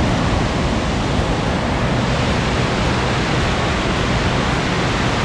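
Steady rush of the Cuyahoga River pouring over a 60-foot dam, an even, unbroken roar of falling water.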